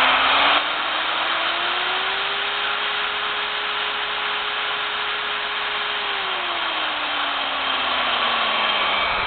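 Milwaukee 4204 magnetic base drill press motor running with no load, its whine rising in pitch over the first few seconds as the variable speed is turned up, holding steady, then sinking back to a lower pitch over the last few seconds.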